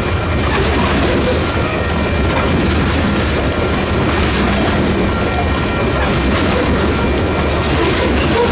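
Freight train rolling past, its steel wheels running on the rails in a loud, steady rumble, with faint thin high ringing tones above it.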